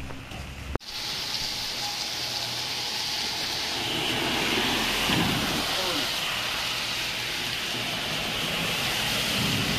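Heavy downpour pelting a flooded street in a dense, steady hiss, starting abruptly just under a second in. A car drives through the standing water around the middle.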